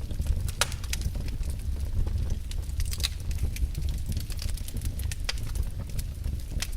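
Wood fire in a fireplace crackling: irregular sharp pops and snaps over a steady low rumble, with louder snaps about half a second and three seconds in.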